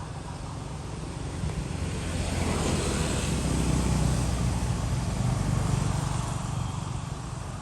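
A motor vehicle passing by on the street, its engine and tyre noise growing louder over a few seconds and then fading away.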